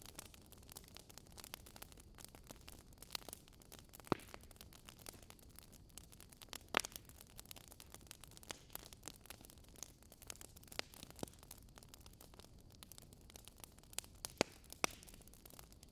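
Wood fire crackling in a fireplace: irregular sharp pops and snaps over a low steady hiss, with a few louder pops scattered through.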